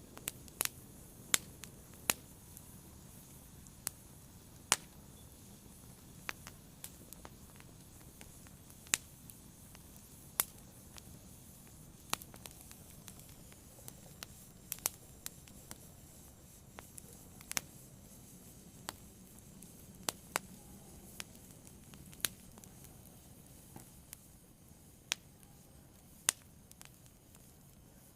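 Wood fire burning: irregular sharp crackles and pops, a few every second or two, over a low steady hiss of flames.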